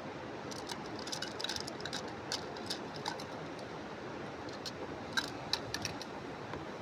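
Irregular light clicks and taps over a steady rushing background noise, bunched in the first few seconds, with a few sharper ones about five seconds in.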